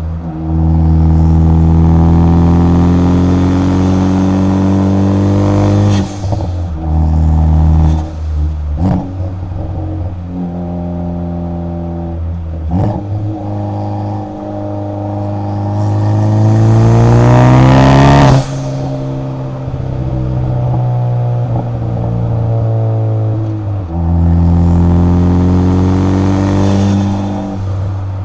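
Car engine's exhaust and intake under way, recorded close up: the engine note climbs in pitch as it accelerates and drops abruptly at each gear change, with stretches of steady cruising between. The longest and loudest pull comes about two-thirds of the way through and ends in a sharp drop.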